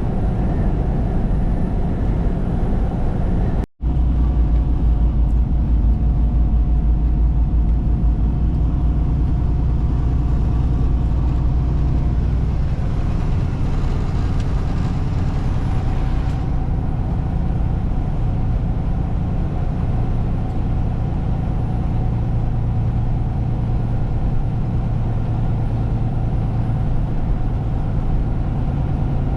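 Truck engine and road noise running steadily, heard from inside the cab, with a low hum; it cuts out for an instant about four seconds in.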